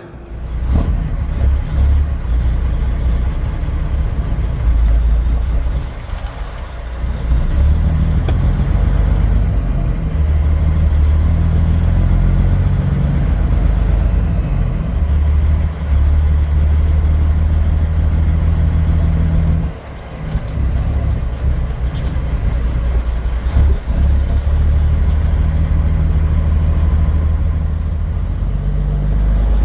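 Semi truck's diesel engine running steadily under load, with brief dips and changes in pitch about six, twenty and twenty-four seconds in.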